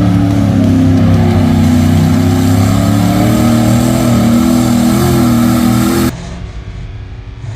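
Mud bog truck engine running hard at high revs, its pitch wavering up and down. It cuts off abruptly about six seconds in, leaving much quieter sound.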